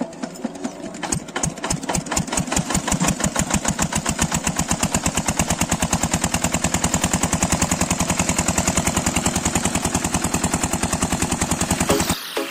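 Engine starting up: slow thuds about a second in that quicken into a fast, steady chugging beat of about eight a second, cutting off suddenly near the end.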